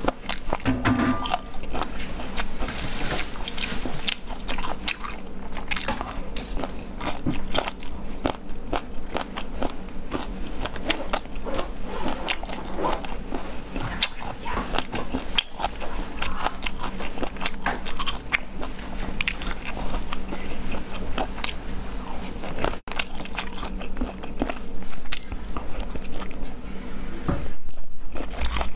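A person chewing food right next to a clip-on microphone, biting and crunching with many small crackling clicks throughout.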